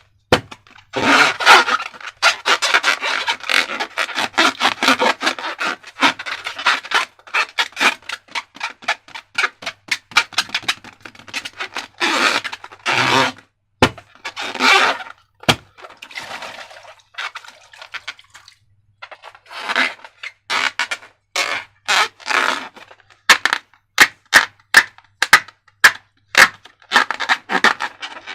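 Slime being squeezed and worked by hand, a dense run of sticky crackles and small pops coming in clusters a few seconds long with short pauses between.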